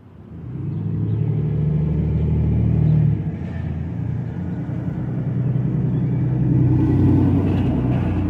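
Domestic cat purring loudly close to the microphone: a steady low rumbling purr that eases for a moment about three seconds in, then builds again.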